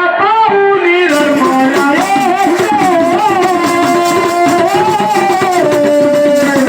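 Devotional song to Mahadev: a melodic line that is likely a voice, gliding between notes, over rhythmic percussion with a shaker-like rattle that comes in about a second in.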